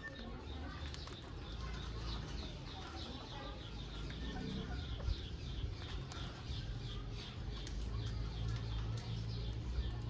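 A parrot chirping in a fast repeated series, about three short high chirps a second, over a steady low rumble.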